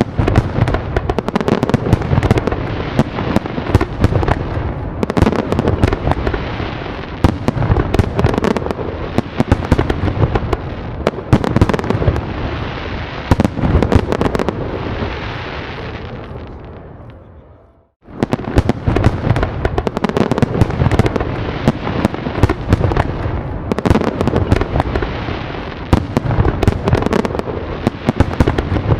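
Fireworks going off in rapid succession, dense sharp bangs with crackle between them. About two-thirds of the way through they die down and cut out abruptly, then start again at once at full density.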